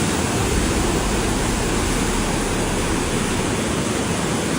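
Steady, loud roar of rushing floodwater with no breaks.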